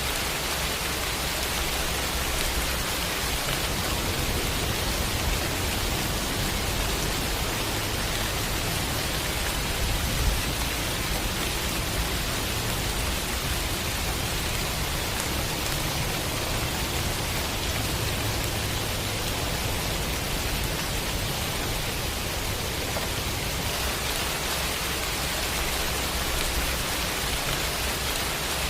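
Steady, dense rain falling, an even hiss with no breaks, over a low rumble that swells a little in the middle.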